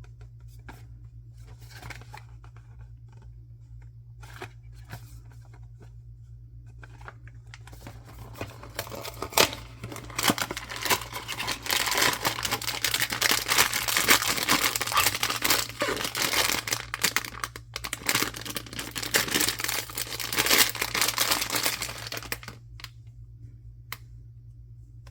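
Blind-box packaging being opened by hand. A few light taps and rustles come first, then a long stretch of dense crinkling and tearing of the wrapper that stops abruptly, with a single click near the end.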